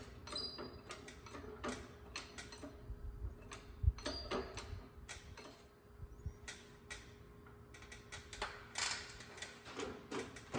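Scattered light clicks and taps of a steel bracket being positioned and bent in a small bench press brake, with one heavy thump about four seconds in, over a faint steady hum.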